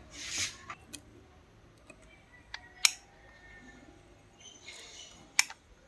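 A few sharp clicks and taps, the loudest about three seconds in and again near the end, with two short bursts of hissing rustle, as of small objects being handled.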